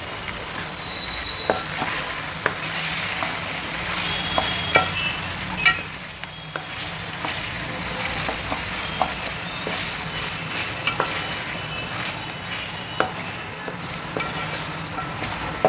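Chicken pieces sizzling in hot oil in a metal pot while a spatula stirs in ginger-garlic paste and turmeric, with frequent short scrapes and knocks of the spatula against the pot.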